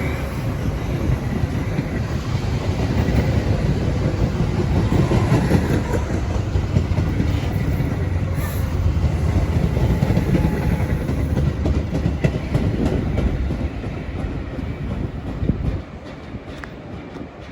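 Metra commuter train running on the rails, a steady rumble of wheels with clickety-clack that weakens and drops away sharply near the end.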